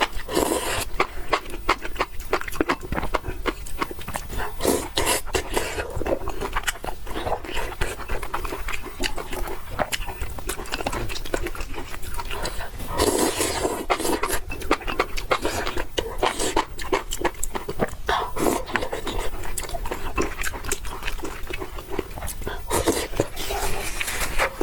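Close-miked eating of noodles: repeated slurping and chewing, with many small wet clicks and smacks.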